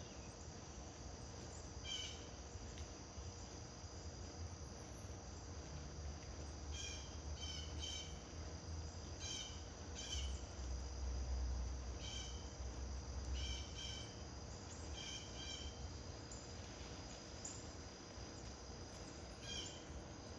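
Steady high trilling of crickets, with short bird chirps repeating every second or so through the middle. A low rumble underneath grows louder about halfway.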